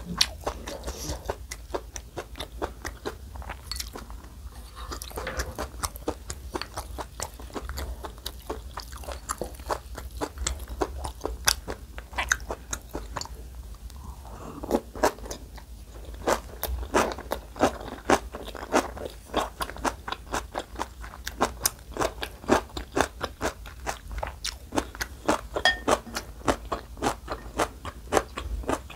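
Close-miked chewing of napa cabbage kimchi, a dense run of quick crisp crunches.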